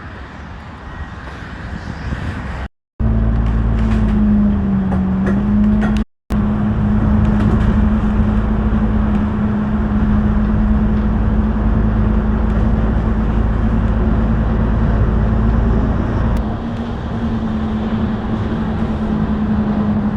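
A large engine running steadily close by: a loud, even low hum with rumble beneath it. It starts about three seconds in, and the sound drops out briefly twice early on.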